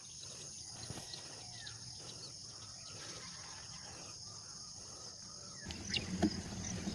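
Steady, high-pitched chorus of insects such as crickets, with a few short chirps over it. Near the end a low rumble and a few knocks come in.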